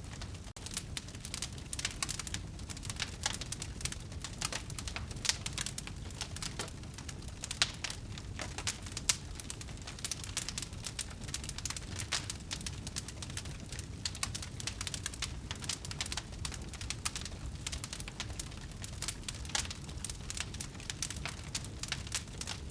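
Fire crackling in a fireplace: a dense, irregular run of small pops and snaps over a steady low noise, with a few louder pops along the way.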